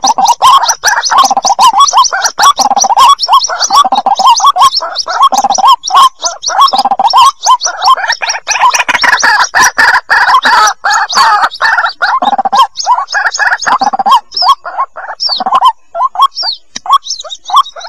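White-breasted waterhen chicks calling: a loud, dense, continuous chatter of short, rapid chirping notes.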